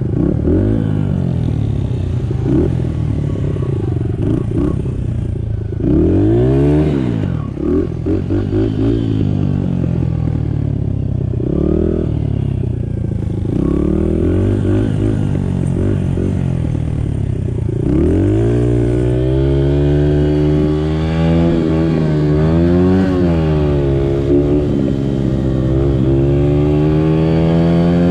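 Small Honda 50cc dirt bike engine being ridden, revving up and easing off again and again, then pulling at steadier, higher revs with small rises and dips for the last ten seconds or so.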